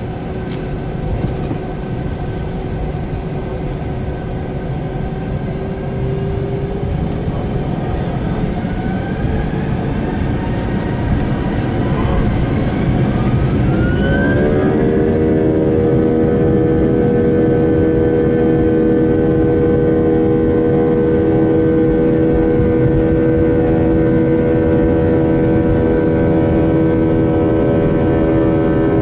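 Jet airliner engines running with a steady rumble and whine. About halfway through, the whine rises in pitch and settles into several strong steady tones as the engines spool up to higher thrust, a little louder from then on.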